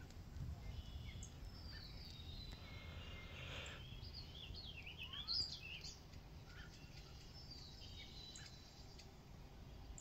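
Songbirds singing quietly, with scattered chirps and short warbled phrases that are busiest around the middle, over a faint low rumble.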